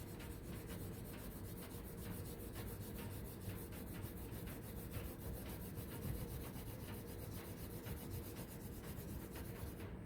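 Crayon rubbed on paper in quick back-and-forth colouring strokes, a steady run of rapid rubbing.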